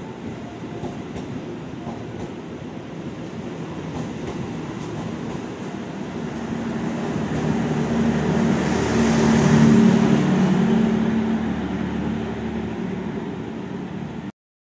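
Passenger train passing through a station without stopping: the steady rumble and wheel noise of its carriages on the rails, swelling to its loudest with a low hum about nine to ten seconds in, then easing off as the last car goes by. The sound cuts off suddenly just before the end.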